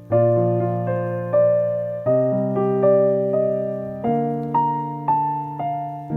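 Background piano music: slow chords and single notes struck about once or twice a second, each ringing and fading before the next.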